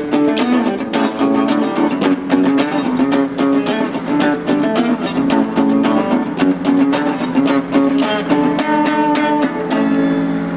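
Acoustic guitar strummed in a fast, steady rhythm, echoing off the subway tunnel walls; the playing stops near the end.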